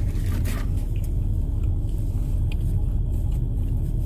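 Car engine idling, heard as a steady low rumble inside the cabin, with the heater running.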